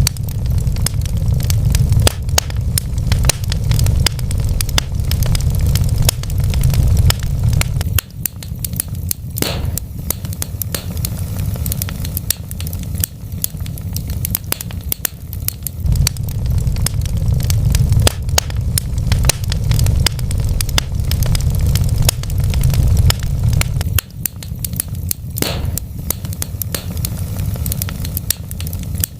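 Wood fire in a fireplace crackling, with constant sharp pops and snaps over a low rumble of flames. The rumble grows and fades every eight seconds or so, and a brief hiss comes twice.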